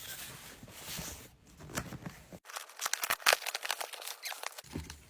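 A package being opened by hand: rustling and tearing of packaging, with a quick run of sharp crackles in the middle.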